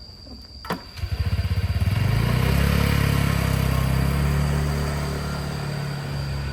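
A small engine starts about a second in after a click, runs steadily, and slowly fades toward the end, as if moving away.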